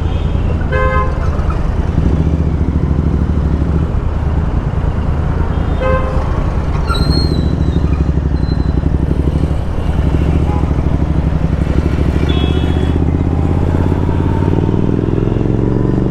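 Royal Enfield Continental GT 650's parallel-twin engine through a loud aftermarket Thrive exhaust, running steadily in traffic and rising in pitch near the end as the bike accelerates. Other vehicles' horns honk several times.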